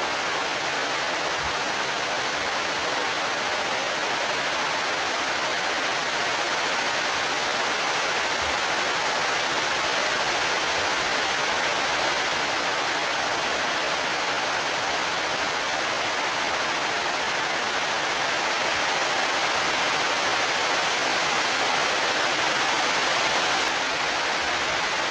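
Heavy rain pouring down in a rainstorm: a loud, steady hiss.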